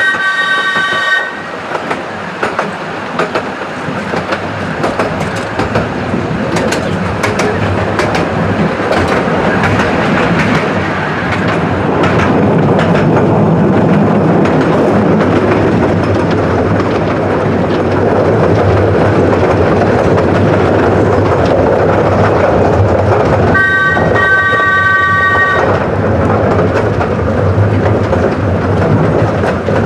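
Ride on a Fairbourne Railway miniature train: steady running rumble and clatter of the wheels over the rail joints. A three-note locomotive whistle sounds briefly at the start and again for about two seconds near the end.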